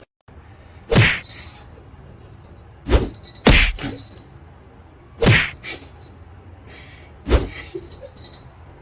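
Five loud thumps at uneven intervals, some with a short rattle after them, over a faint steady background.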